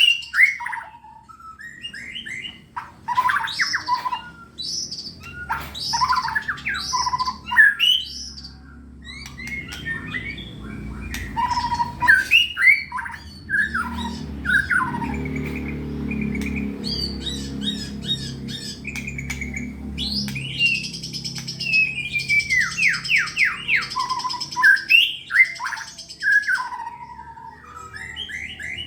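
A caged white-rumped shama (murai batu) singing continuously in rapid, varied phrases of whistles, trills and harsh chatters, the full 'gacor' song of a contest bird. A low rumble runs underneath through the middle.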